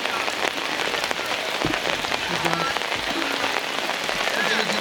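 Heavy rain falling in a steady, dense patter of drops.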